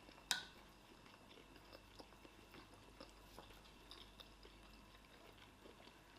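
Faint chewing and mouth sounds of people eating, with scattered small clicks. One sharp click with a brief ring comes about a third of a second in.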